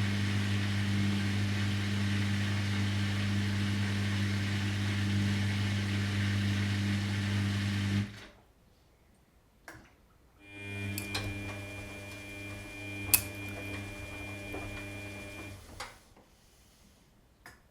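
Washing machine motor humming steadily as it turns the drum, then stopping abruptly about halfway through. After a pause with a click, the motor starts again more quietly with a thin high whine, runs for about five seconds, and stops, with a few clicks around it. This is the stop-start tumbling of a wash cycle.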